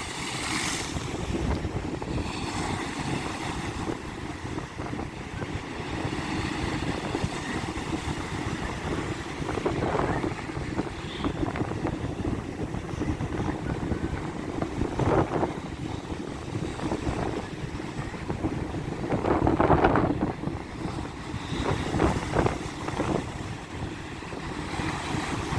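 Strong wind buffeting the microphone, over big storm waves surging and breaking against the shore. A few louder rushes come through, the loudest about twenty seconds in.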